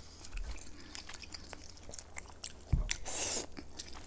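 Close-miked eating sounds: chewing and biting of rice and vegetables, with small scattered clicks of forks. A thump comes about three seconds in, followed by a louder half-second crunch.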